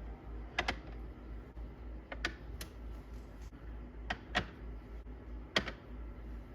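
Scattered sharp clicks and taps, about seven at irregular spacing, some in quick pairs, over a low steady hum.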